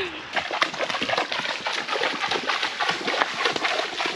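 Horses' hooves splashing through a wide muddy puddle, a continuous run of wet, sloshing steps.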